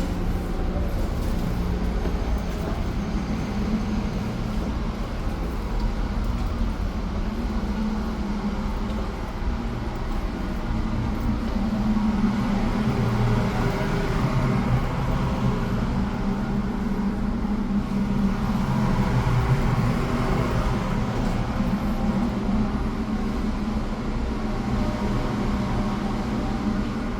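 Steady low engine rumble and hum of a large moving vehicle, swelling louder for a while past the middle.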